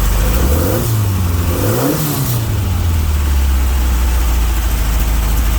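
2332cc Volkswagen engine with 13:1 compression idling, revved twice with quick throttle blips that rise and fall, then settling back to a steady idle.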